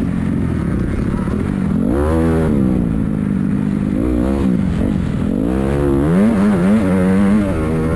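Motocross dirt bike engines revving up and easing off several times as the bikes ride the track, with quick up-and-down revs near the end.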